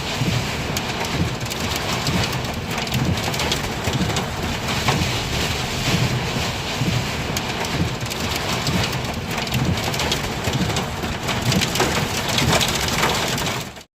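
Heavy rain and gusting wind in a thunderstorm downburst: a steady, dense rush of rain beating on surfaces, with the wind surging underneath. It cuts off abruptly just before the end.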